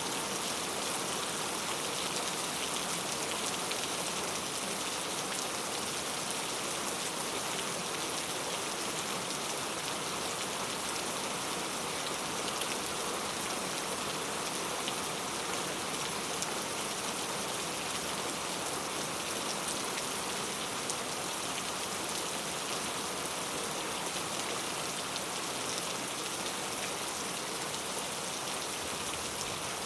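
Heavy rain falling steadily, a dense even hiss of drops with faint scattered pattering of individual drops on hard surfaces.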